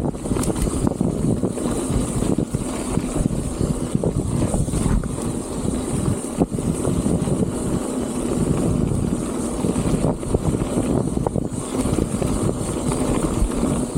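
Strong wind buffeting the microphone: a loud, steady low rumble that rises and falls unevenly with the gusts.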